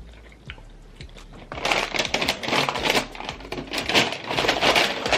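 Close-miked crunchy chewing of a mouthful of a lettuce-heavy chicken burrito bowl: a dense, irregular crackle that starts about a second and a half in.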